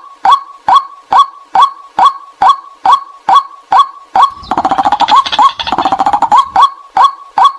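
White-breasted waterhen calls used as a lure: a loud, abrupt 'kwak' note repeated about twice a second, breaking for about two seconds past the middle into a faster, denser run of calls before the steady repetition resumes.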